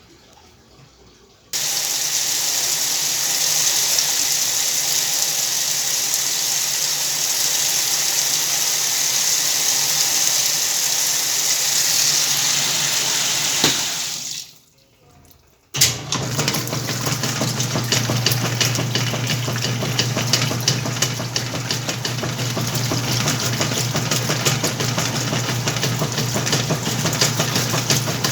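Whirlpool washing machine: water pouring into the tub starts about a second and a half in and runs steadily for about twelve seconds, then cuts off. After a short pause the washer's motor starts and runs with a steady low hum and a fast, busy rattle.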